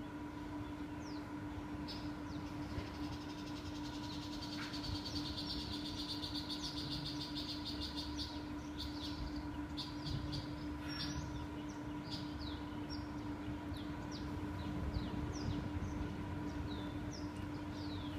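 Birds chirping in short, quick falling notes, many times over, with a trilling stretch in the first half, over a steady low hum.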